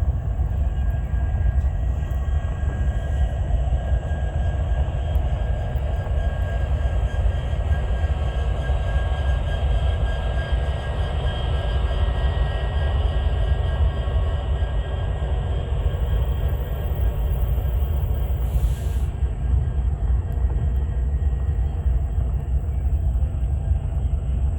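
Union Pacific freight train passing, a steady heavy rumble of wheels on rail with faint, thin high tones held above it throughout.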